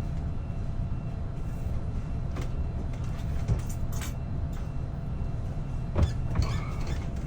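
Steady low rumble of airliner cabin noise, with a few soft clicks over it.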